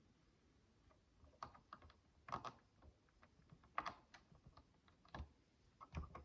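Micro plastic building bricks being handled and pressed together: faint, light clicks and taps in irregular clusters.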